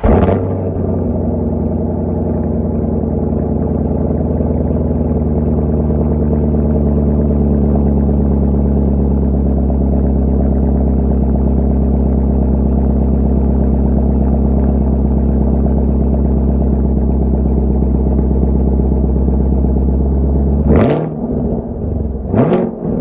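Chevrolet Camaro LT1's 6.2-litre V8 through its stock exhaust, just started: a surge right at the start, then a steady idle for about twenty seconds, then two quick throttle blips near the end, each rising and falling in pitch.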